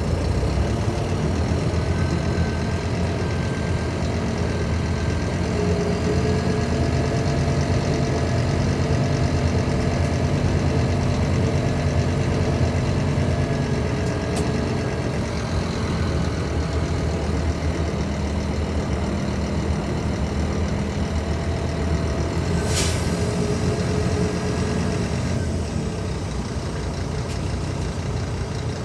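Scania K310IB bus's diesel engine running steadily, its hum shifting slightly in pitch over the first dozen seconds. A short sharp hiss cuts in about 23 seconds in.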